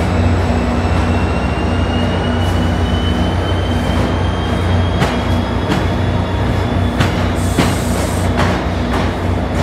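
NJ Transit passenger train pulling out, its coaches rolling past close by over a steady low hum, with a thin whine slowly rising in pitch as it gathers speed. From about halfway, the wheels clack over rail joints several times.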